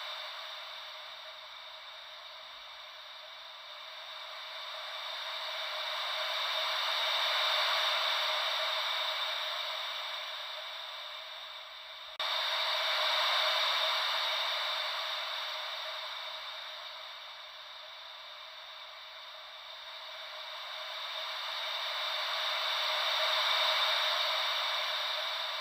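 Ocean-wave white noise: a steady hiss with no deep rumble, slowly swelling and easing like waves coming in and drawing back, several seconds per swell. About twelve seconds in the hiss jumps abruptly louder, as at a loop seam.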